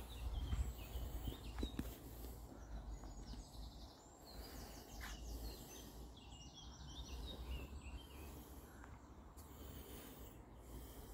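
Birds singing in short phrases of quick high notes, over a low rumble of wind on the microphone.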